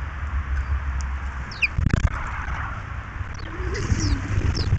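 Small birds at a feeder giving short, high chirps several times over a steady low rumble, with a louder thump about two seconds in.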